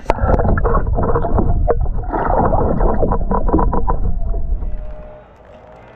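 Water splashing and sloshing against the side of a kayak as a bass is let back into the lake, with wind buffeting the microphone. It fades about five seconds in, and background music starts quietly.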